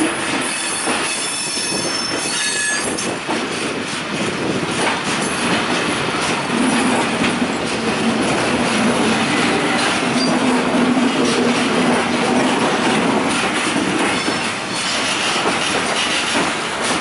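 Freight train of intermodal flat wagons loaded with curtain-sided swap bodies rolling past, wheels clattering over the rails, with thin high wheel squeal in the first few seconds.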